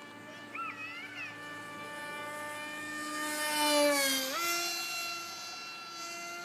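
Electric RC jet's brushless motor and propeller whining steadily in flight. It gets louder and brighter to a peak about four seconds in, where the pitch dips and then jumps up, before settling steady again.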